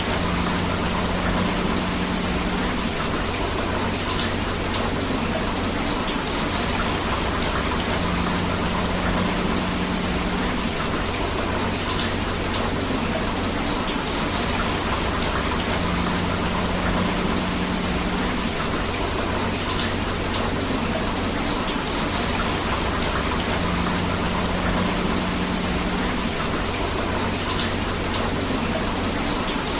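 Steady rain mixed with a rushing river: a dense, even hiss of water, with a faint low pattern that comes back about every eight seconds.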